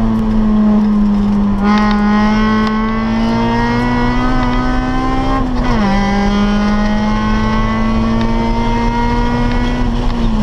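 1997 Acura Integra GS-R's 1.8-litre VTEC four-cylinder engine, with a cold air intake and full exhaust, running hard at high revs from inside the cabin. The pitch climbs slowly, drops sharply at an upshift about six seconds in, then climbs again.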